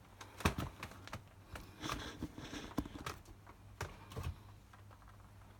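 Scattered light clicks and knocks at irregular intervals, with a brief soft rustle about two seconds in.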